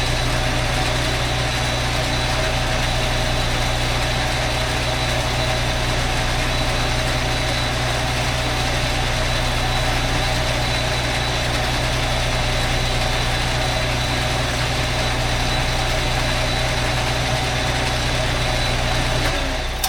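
Metal lathe running steadily while a boring bar cuts the inside of a motorcycle cylinder, a low hum with a thin high tone over it; the lathe stops shortly before the end.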